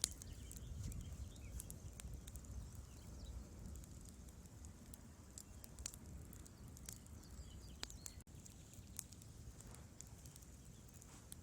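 Wood fire crackling in a fireplace: irregular sharp snaps and pops over a faint, low rumble of burning logs.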